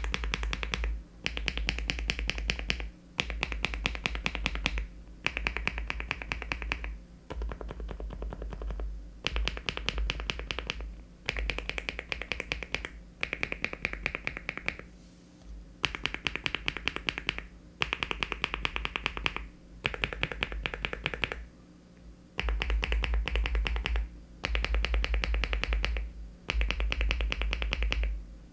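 Bursts of fast typing on a LEOBOG Hi75 aluminium mechanical keyboard fitted with HMX switches and Cherry-profile keycaps. There are about fourteen short runs of quick keystrokes with brief pauses between them, and some runs sound deeper than others.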